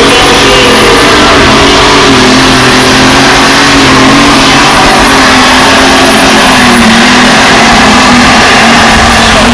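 Super stock pulling tractor engine running flat out under load, very loud, its pitch sagging slowly across the run, with a thin steady high whine above it.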